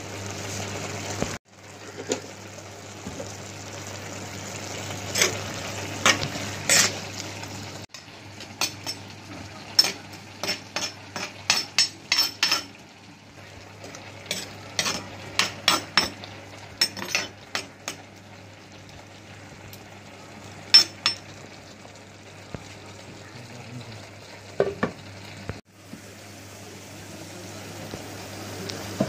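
Prawns and spices sizzling in a clay pot while a metal spoon stirs them, clinking and scraping against the pot in a run of sharp knocks through the middle of the stretch. The sizzle drops out for an instant a few times.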